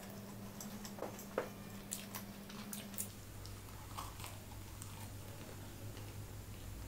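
Close-miked mouth sounds of a person biting into and chewing crispy food, with a few sharp crunchy clicks in the first four seconds, the loudest about a second and a half in. A low steady electrical hum runs underneath.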